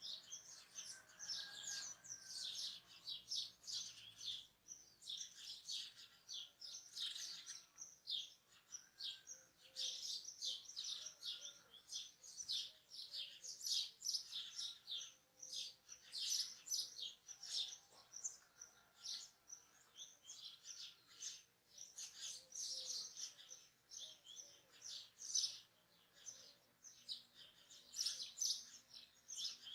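Several birds chirping and singing together in a dawn chorus, a dense run of quick, high chirps with a few lower whistled notes among them.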